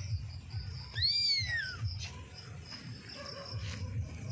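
A single short animal call, about a second in, that rises and then falls in pitch, over a steady high insect trill and a low rumble.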